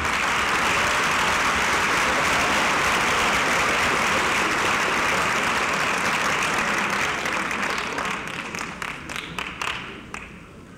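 Audience applauding in a theater, steady at first, then thinning into scattered claps and dying away near the end.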